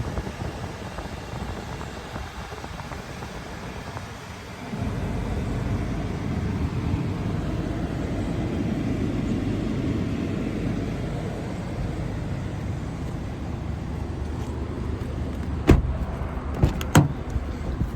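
A car running with a steady low rumble that gets louder about five seconds in. Three sharp knocks come near the end.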